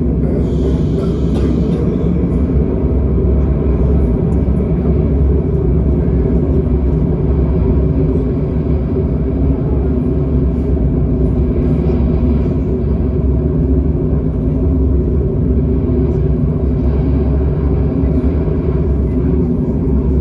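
Steady, loud low rumble that does not change, with faint scattered higher sounds over it.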